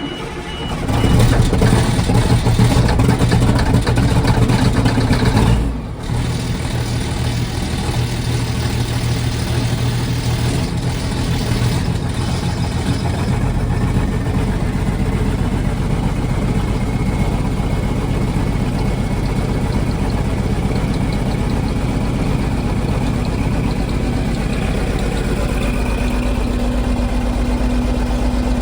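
Straight-piped Cummins 855 diesel of a Versatile 875 tractor, cold-started after a night around minus five. It catches about a second in and runs loud for about five seconds, then drops back and settles into a steady idle.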